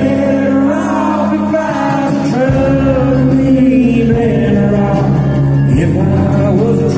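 Live band music played loud through a concert sound system, with singing over it.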